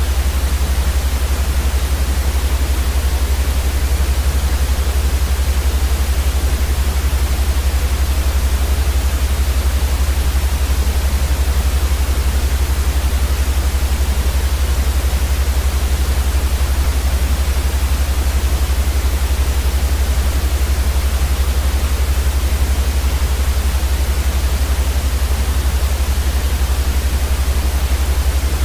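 Steady, unchanging white noise for sleep: an even hiss across the whole range, with a heavier low rumble underneath.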